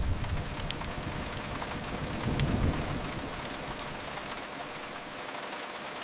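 Steady rain hiss on a window, with a few faint clicks. A low rumble swells about two and a half seconds in and fades away.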